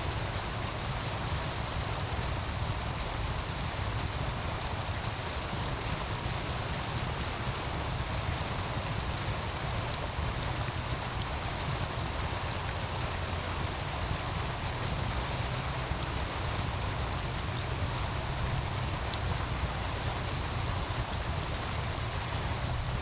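Wood fire crackling with scattered small pops over the steady rush of a meltwater stream; one sharper pop comes near the end.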